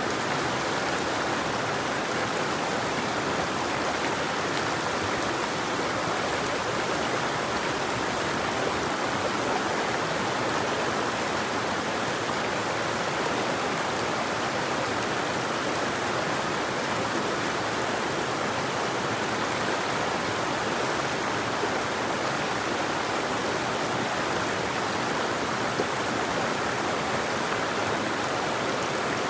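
River water flowing over rocks: a steady, unbroken rush with no birds.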